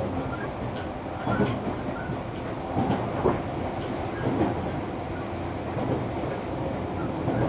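JR Kyushu 305 series electric train running, heard inside its motor car in a subway tunnel: a steady rumble of wheels on rail with a few sharp clacks.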